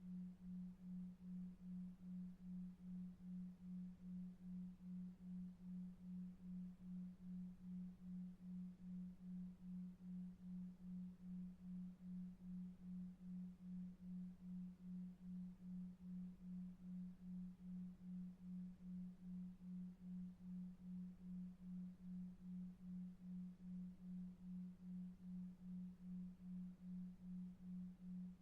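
Faint, low electronic tone pulsing evenly about two and a half times a second, a 2.5 Hz delta-wave pulse, over a very faint bed of brown noise.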